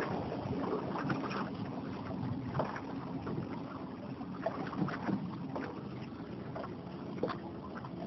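Water lapping and splashing irregularly against a boat hull, with wind buffeting the microphone.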